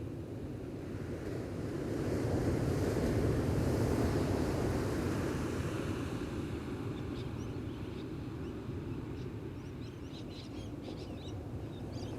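Ocean waves washing onto the beach, one wash swelling to a peak a few seconds in and then easing off. Small birds chirp faintly in the second half.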